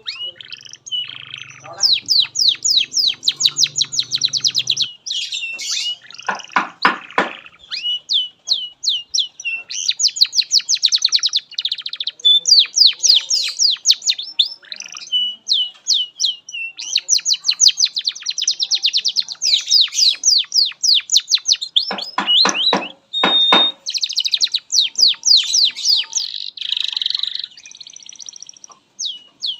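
Domestic canary singing a long, continuous song of rapid trills and quick sweeping notes, with a few deeper rolling phrases.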